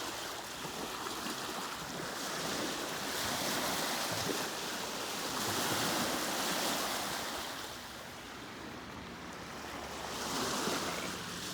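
Small Lake Ontario waves washing onto a rocky, sandy beach, the wash swelling and fading in a few surges.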